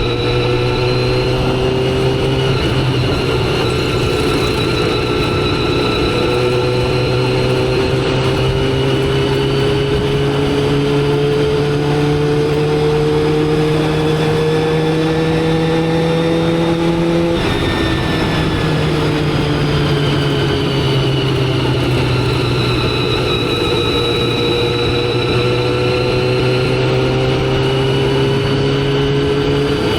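Motorcycle engine running under way. Its pitch climbs slowly through the first half, drops suddenly a little past halfway, then rises and falls gently, over a steady rush of wind and road noise.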